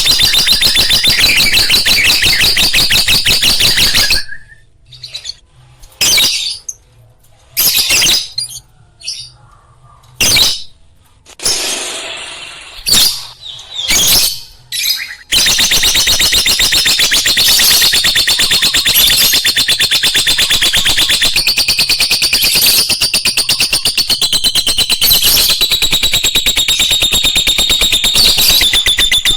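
Lovebird chattering: fast, unbroken high chirping for the first four seconds, then a stretch of short separate chirps and clicks, then unbroken chatter again from about halfway in.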